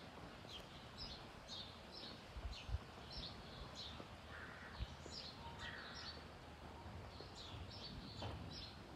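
Small birds chirping faintly: short high notes repeated throughout, over a quiet background hiss.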